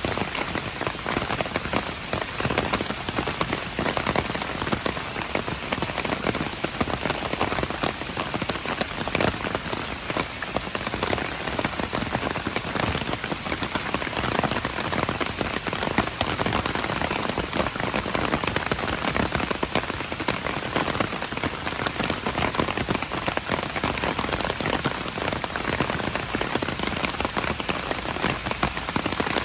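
Steady rain falling, a dense patter of many individual drops over an even hiss.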